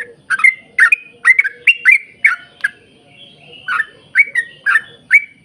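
Yellow-vented bulbul (trucukan) singing a long run of short, bubbly, chopped notes, about two or three a second, with a brief pause around the middle.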